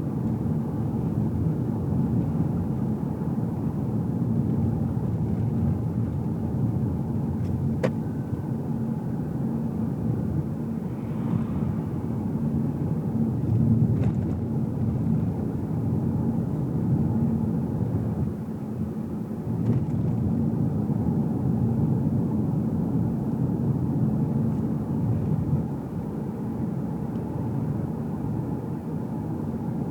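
Car cabin sound while driving: a steady low rumble of engine and tyres on the road, with a few faint clicks.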